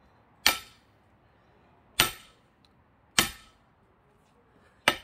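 Four heavy metal-on-metal strikes, about a second and a half apart, each with a short ring: a sledgehammer driving an axe head that is stuck in a pine log used as a wedge.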